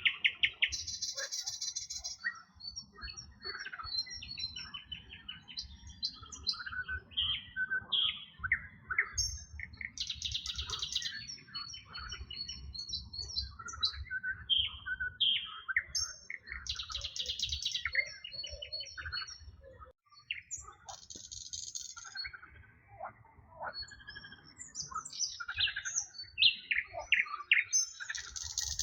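Several wild birds singing and chirping together, with short whistled notes and quick glides, and a dense buzzy trill that comes back about every six or seven seconds. A steady low rumble lies underneath.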